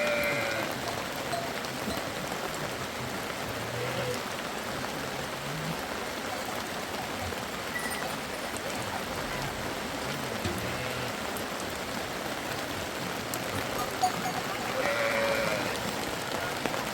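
Steady rain falling, an even hiss, with a short pitched call near the end.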